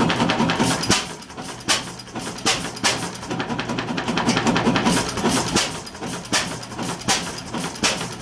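Ingeco Type AM 6 hp single-cylinder hit-and-miss engine running. About a second in it stops its run of steady firing and settles into hit-and-miss running: a sharp firing stroke every half second to second, with the engine coasting between strokes.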